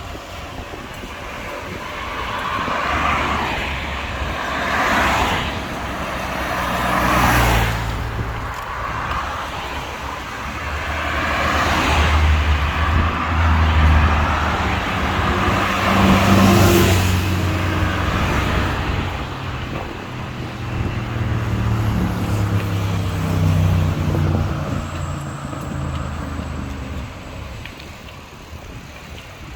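Road traffic: several motor vehicles passing close by one after another, each engine hum swelling and fading, with sharp swishes as cars go past.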